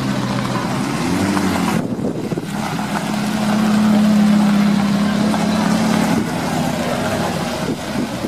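Supercar V8 engines at low revs as cars drive slowly past: a McLaren 12C's engine rising briefly as it pulls away near the start, then a Ferrari F430's steady engine note as it passes, loudest about halfway through.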